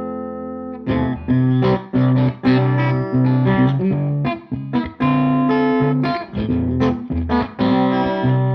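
Electric guitar through a Tone King Gremlin tube amp on its rhythm channel at maximum gain, with the guitar's volume knob rolled down. A held chord fades away, then about a second in comes a run of short strummed chords with brief stops between them.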